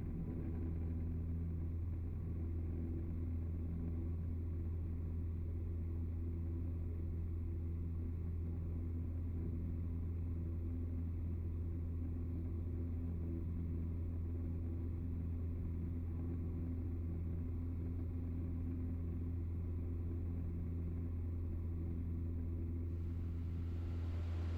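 Piper Tomahawk's Lycoming O-235 four-cylinder engine and propeller droning steadily as heard in the cockpit, a low, even hum at constant power. A hiss comes up near the end.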